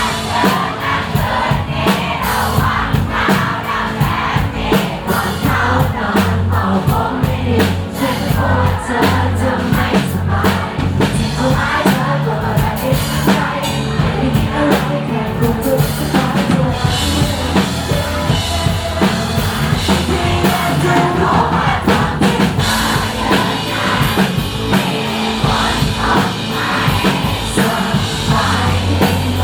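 Live pop-rock band performing a song: sung vocals over a drum kit, electric guitar, bass and synthesizer, with a steady drum beat.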